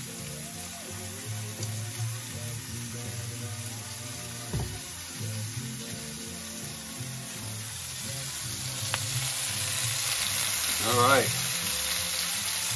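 Halved tomatoes sizzling in a hot skillet on the stovetop, a steady frying hiss that grows louder over the last few seconds.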